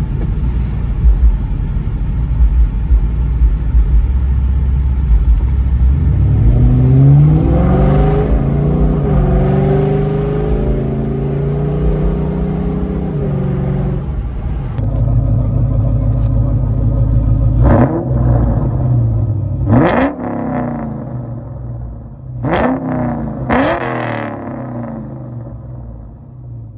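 2004 Mustang with an SLP Loudmouth cat-back exhaust: a deep, loud exhaust rumble whose revs climb and hold for several seconds before dropping back. Then come four short, sharp throttle blips, and the sound fades toward the end.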